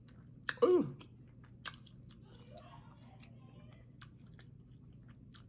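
Close-up chewing and mouth clicks as meat is bitten and pulled from a chicken wing, with a short rising-then-falling vocal hum about half a second in.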